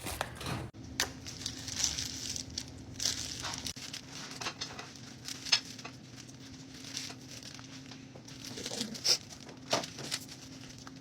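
Food preparation handling noises: scattered light crinkles, rustles and small taps at an irregular pace, over a faint steady hum.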